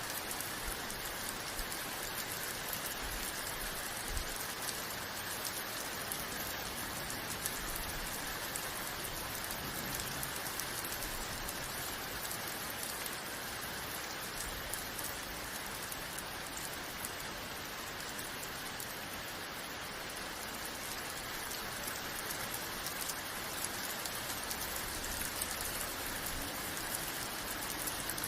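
Steady rain falling on a surface, an even hiss with many small drop patters throughout.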